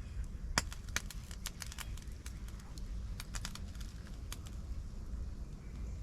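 Campfire crackling: irregular sharp pops and snaps of burning wood over a low rumble.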